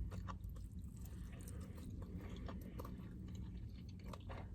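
A person chewing a mouthful of food close to the microphone, with scattered short soft mouth clicks over a steady low hum.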